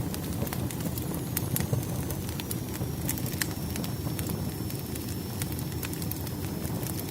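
Firewood burning in a fireplace: a steady low rumble of flames with frequent sharp, irregular crackles and pops. A faint, thin high whistle starts about two seconds in and drifts slightly lower.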